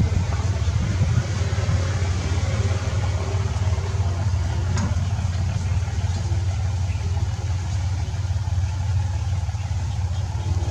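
A steady low rumble with no clear change.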